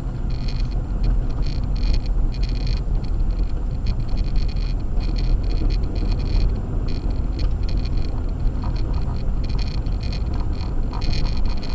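Acura MDX driving on a snow-covered road on Sumitomo Ice Edge winter tires: a steady low rumble of engine and road noise, with a high hissing that flickers on and off irregularly.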